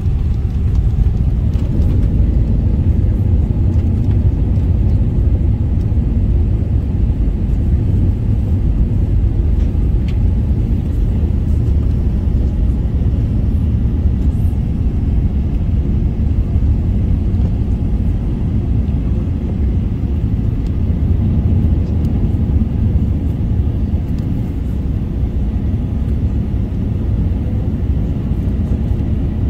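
Steady low rumble of an Airbus A380's engines and airframe, heard from inside the passenger cabin.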